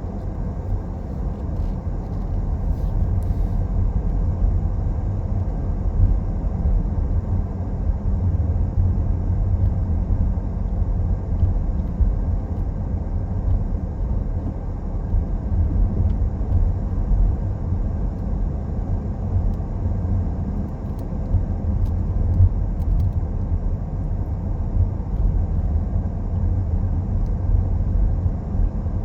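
Car driving along the road: a steady, low rumble of tyre and engine noise.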